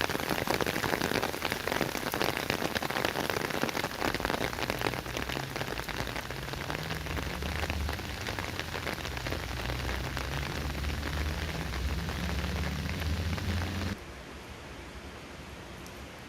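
Heavy rain pouring down, a dense crackle of drops striking surfaces, with a low rumble joining in from about six seconds. About fourteen seconds in it cuts abruptly to a quieter, steady hiss of rain.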